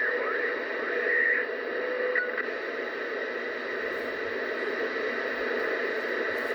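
CB radio receiver hissing with static between transmissions, with faint wavering tones running through the noise.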